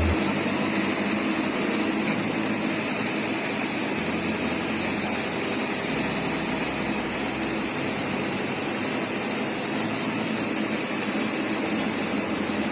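An engine running steadily, an even unbroken drone, with faint background music underneath.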